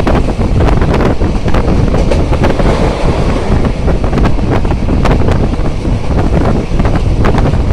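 Moving passenger train heard from an open carriage window: loud wind buffeting the microphone over the steady rumble of the carriage, with irregular clacks of the wheels over rail joints.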